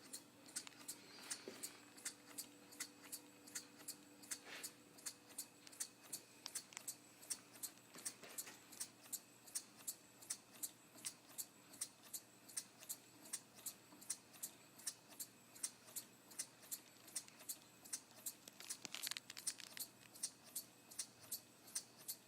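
Model wooden beam engine running steadily, its mechanism clicking evenly about three times a second. A brief hiss comes in late on.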